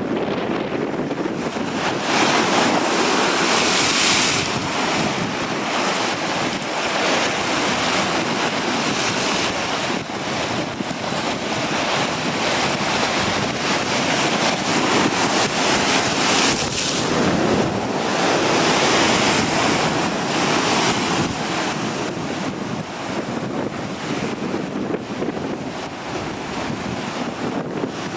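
Strong wind buffeting the microphone in gusts that rise and fall every few seconds, over the wash of ocean surf.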